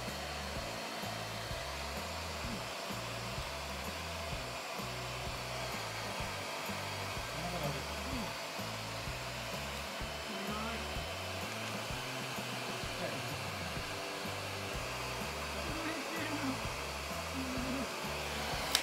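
A hose-fed pet hair dryer blows steadily as it dries a kitten's wet fur, then cuts off abruptly.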